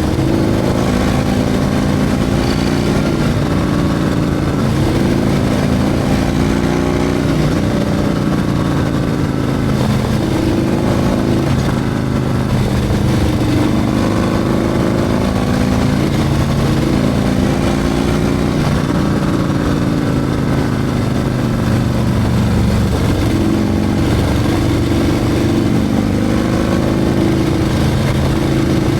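Harley-Davidson Milwaukee-Eight 114 V-twin with a Screaming Eagle 447 torque cam, running steadily, its pitch stepping up and down every few seconds as the revs change.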